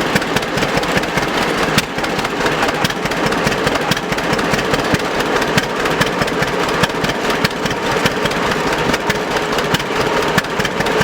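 John Deere Model D's two-cylinder engine running steadily, with a regular popping exhaust beat.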